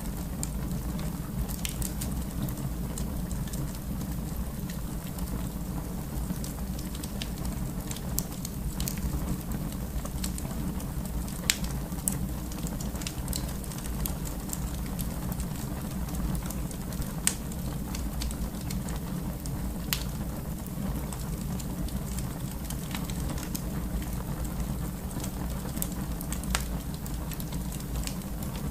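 Wood fire burning in a fireplace: a steady low rumble of the flames with scattered crackles and pops, a few sharper pops around the middle.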